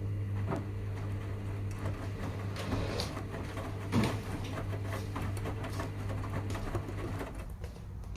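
Washing machine running a delicates wash: the motor hums steadily as the drum turns, with light irregular clicks and patter from the load inside. The hum stops about seven seconds in as the drum pauses.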